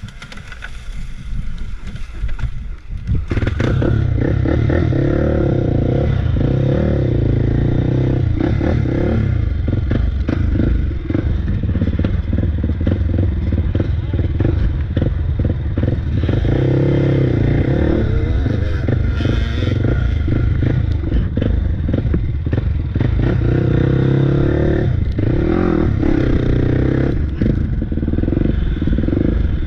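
Small single-cylinder off-road engine running hard on a trail, revving up and falling back several times. Rattling and knocks from the rough ground run through it.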